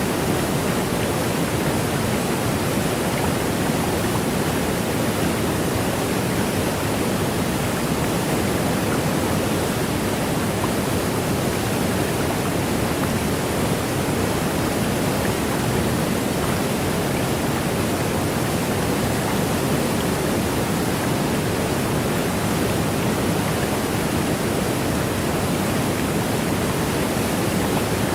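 Waterfall pouring: a steady, unbroken rush of falling water, strongest in the low-middle range.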